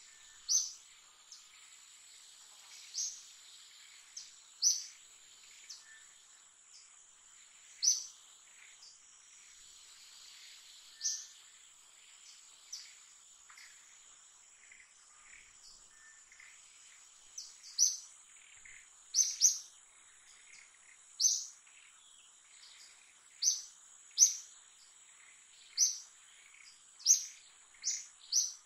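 Short, high bird chirps repeated every second or two, coming more often in the second half, over a steady high-pitched insect drone.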